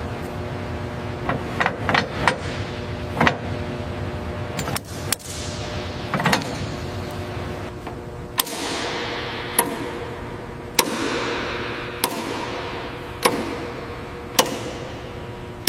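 Steady machinery hum with several held tones, overlaid by sharp metallic clanks and knocks. The clanks are irregular at first and settle to about one every second or so in the second half, some followed by a short hiss.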